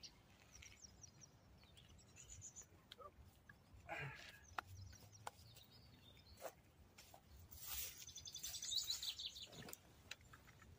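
Small songbirds singing faintly in short, fast-repeated chirp series, with a few soft clicks and a brief rustle between them.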